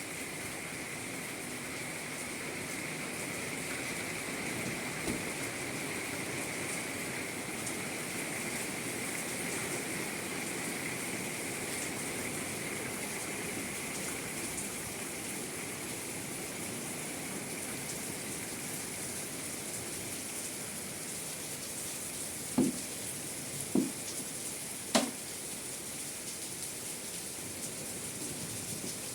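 Steady rain falling. Late on, three short knocks about a second apart stand out above it.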